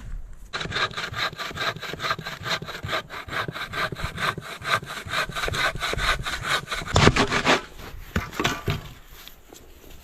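Hand saw cutting through wood with quick, even back-and-forth strokes, stopping about three-quarters of the way through.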